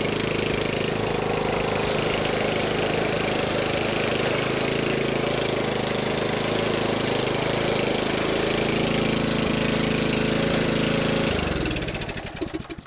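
A 14.5 hp Briggs & Stratton OHV single-cylinder engine on a garden tractor running steadily, then winding down and stopping near the end, its firing slowing as it dies.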